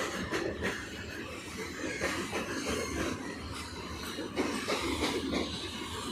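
Train running along the track: a steady rumble with frequent short clacks.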